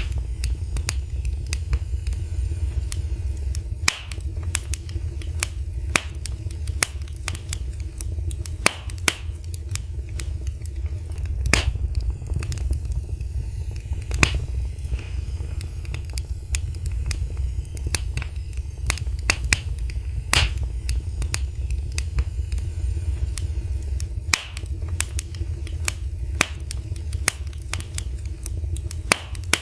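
Fire burning in a fireplace, crackling with many irregular sharp pops and snaps over a steady low rumble.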